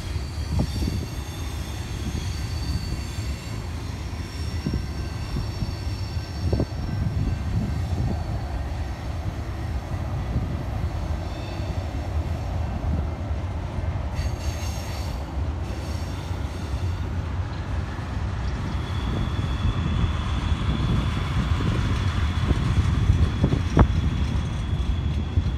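Tank cars and covered hoppers of a freight train rolling past: a steady low rumble of steel wheels on rail with occasional sharp clicks. Thin high wheel squeal rings over it in the first few seconds and again through the last third.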